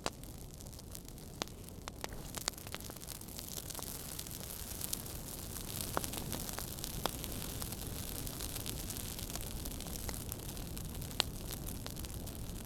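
Wood fire burning in a fireplace: a steady low rumble and hiss with scattered sharp crackles and pops, a few louder snaps about six, seven and eleven seconds in.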